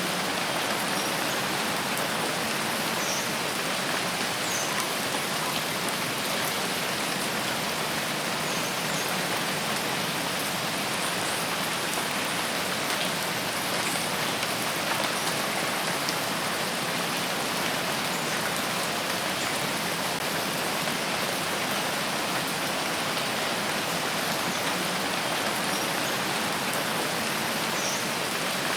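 Steady rain falling in a forest, an even, unbroken hiss.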